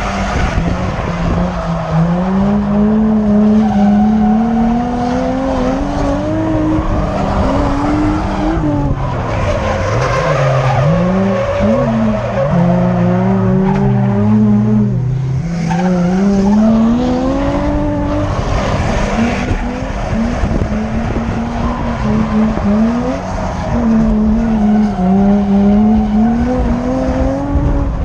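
Drift car engine revving hard, its pitch climbing and dropping again and again through the throttle work, with tyres squealing and skidding beneath it.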